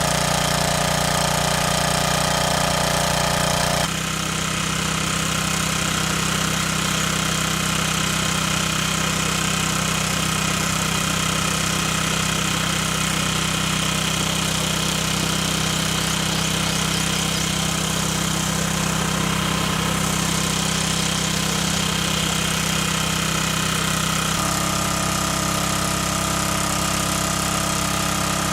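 A motor running steadily, its tone changing abruptly about four seconds in and again near the end.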